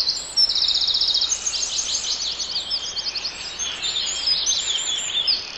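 Birds singing: many short, high, quick chirps that swoop up and down, with a fast trill near the start, over a faint steady hiss.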